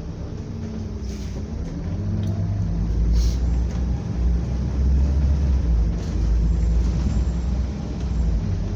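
Scania double-decker bus under way, its engine running with a low rumble that rises in pitch and grows louder about two seconds in as it pulls. Two short hisses come about one and three seconds in.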